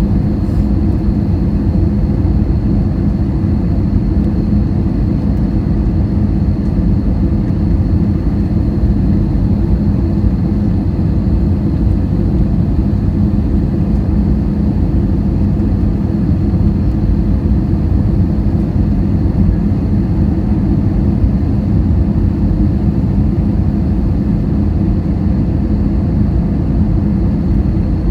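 Steady low rumble of a jet airliner, with a faint high whine held throughout.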